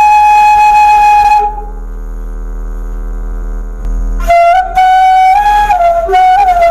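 Bamboo suling flute played by a beginner: a long held note that breaks off about a second and a half in, a quieter low hum in the pause, then the flute comes back about four seconds in on lower notes that waver and slide.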